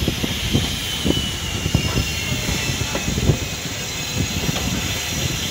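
Passenger train rolling along the track, heard from inside a coach at an open window: a steady rail rumble with irregular low knocks.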